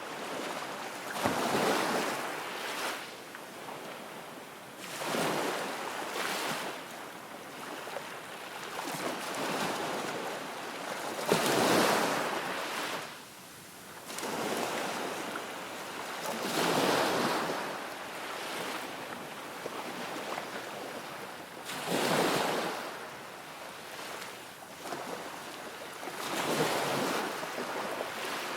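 Small waves washing in at the water's edge, the hiss swelling and falling away roughly every five seconds.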